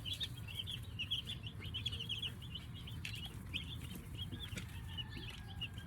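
A brood of three-day-old broiler chicks peeping continuously, many short high calls overlapping, over a low steady hum.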